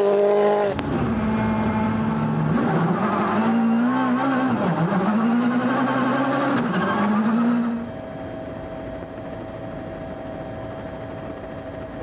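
Rally car engine on a gravel stage: a car's engine pitch falling as it passes, then after a sudden cut a car's engine revving up and down repeatedly through gear changes and lifts. About eight seconds in the sound drops to a much quieter, steadier engine hum.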